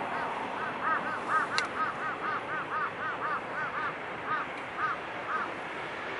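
A bird giving a rapid run of short honking calls, about four a second, each note rising and falling in pitch; the calls space out and stop about five seconds in. A steady rushing hiss lies underneath.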